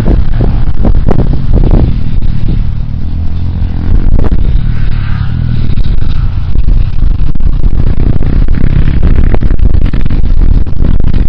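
Motocross motorcycle riding, its engine largely buried under heavy wind buffeting on the microphone, with scattered knocks and clatter.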